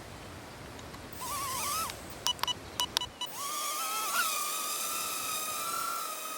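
Cheerson CX10 nano quadcopter's tiny motors whining. They briefly spin up with a wavering pitch about a second in, give a few sharp clicks, then settle into a steady high whine from about three seconds in, with a short jump in pitch about a second later.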